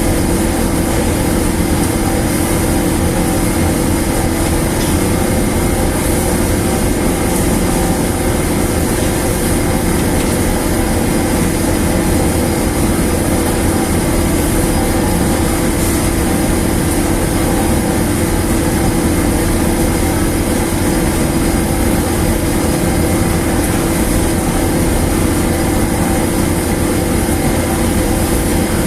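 Large machine running steadily: a loud, constant hum with a strong low tone and a hiss over it, unchanging throughout.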